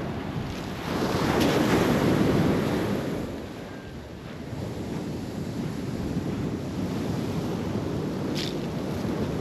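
Ocean surf breaking on the beach, one wave swelling loud about a second in and washing out by about three seconds, with wind buffeting the microphone throughout.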